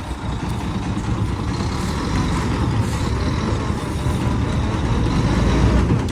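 Truck engines running steadily under an electric winch pull on a stuck, loaded dump truck, with a faint steady whine higher up.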